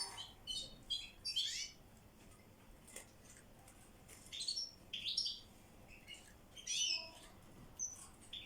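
European goldfinches chirping and twittering in short, high bouts of calls, with brief gaps between them.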